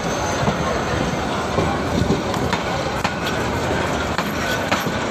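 Passenger train coaches rolling slowly past: a steady rumble with irregular clicks and knocks from the wheels and couplings, with crowd chatter mixed in.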